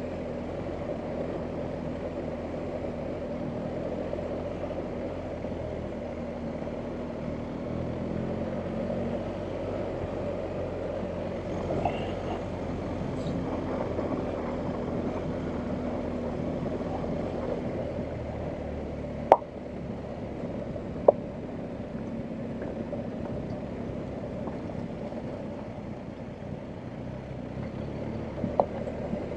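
BMW R1250GS Adventure's 1254 cc boxer twin running steadily at low revs, its note easing off a little about two-thirds of the way in. A few sharp knocks come through about two-thirds in and again near the end.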